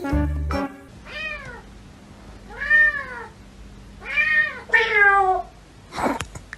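A domestic cat meowing four times, each call rising and falling, the last one sliding down in pitch. A short noisy burst follows near the end.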